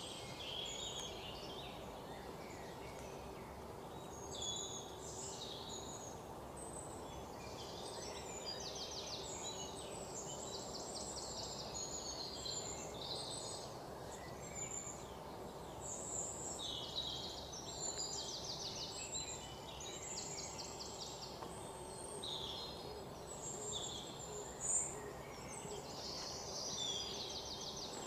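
Birds chirping and trilling again and again over a steady low background hum, with one brief sharp sound near the end.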